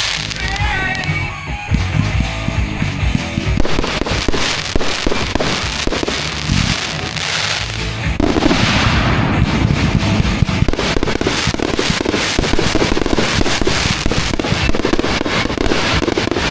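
Fireworks going off in rapid succession, a dense string of bangs and crackles that grows thicker and louder about halfway through, with music playing alongside.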